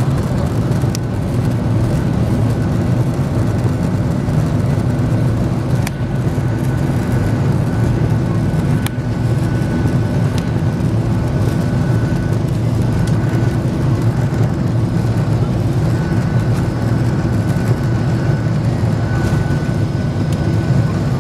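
Boeing 737-800's CFM56 jet engines and airflow heard as a steady, loud low roar inside the cabin during takeoff, with a couple of faint clicks.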